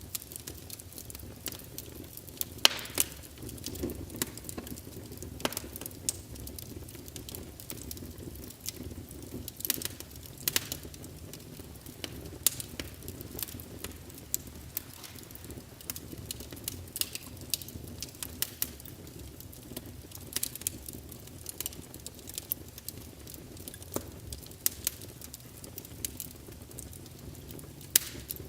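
Wood fire in a fireplace crackling, with irregular sharp pops and snaps over a steady low hiss and rumble of flames. A few louder pops stand out, including one near the end.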